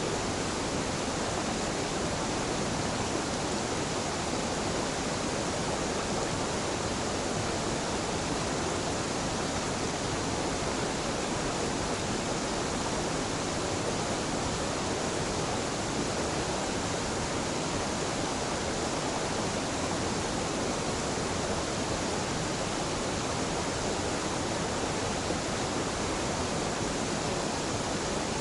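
A small, gentle mountain waterfall pouring steadily: an even, constant rush of falling and splashing water.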